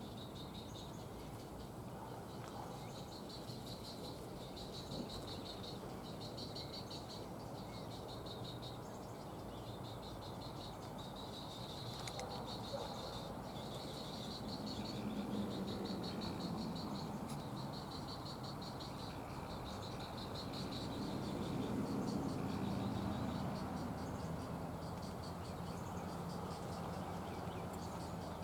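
Insects calling at the pond: short, high-pitched buzzing trills repeating about once a second over a steady outdoor hiss. A low rumble swells twice, about halfway through and again a few seconds later.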